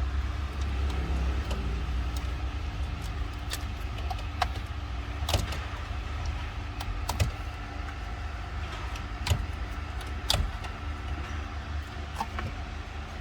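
Scattered clicks, taps and light clatter from hands and tools working on car dashboard trim, clips and wiring, over a steady low hum.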